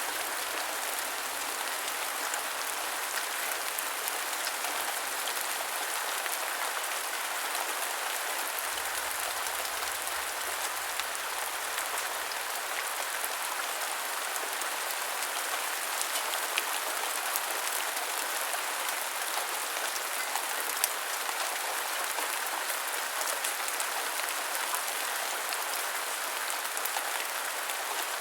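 Steady heavy rain falling on a surface: an even hiss with scattered drop ticks, a few slightly louder drops now and then.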